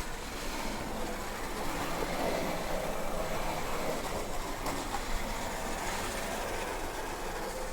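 Electric remote-control cars driving during a chase: a steady whir of small electric motors, with faint wavering whines and tyre noise.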